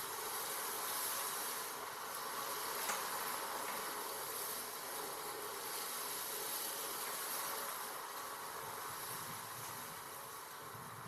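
Steady hissing electronic noise from a live improvised noise performance, slowly dying away over the last few seconds.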